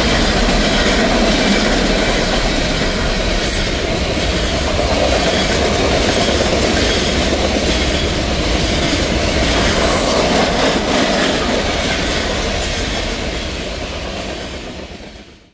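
Freight cars of a CSX manifest train rolling past at speed: a steady, loud clatter of steel wheels on rail that fades out at the end.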